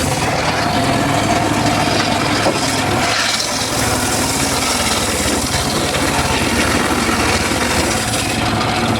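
Homemade circular saw rig cutting wood, the blade's steady rasping cut running over the engine that drives it.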